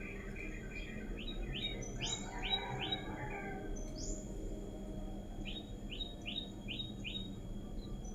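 Faint birdsong: a small bird repeating quick downward-sweeping chirps, a run of five about a second in and another run of five near six seconds, with higher single downward notes in between.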